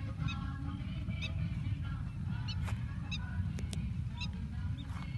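Birds calling repeatedly, short pitched calls and higher chirps, over a steady low rumble.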